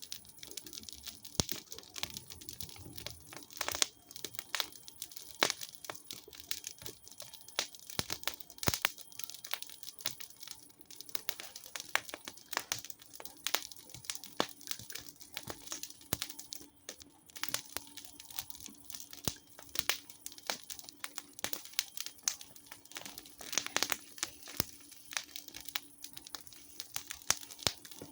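Wood campfire burning and crackling, with irregular snaps and pops throughout.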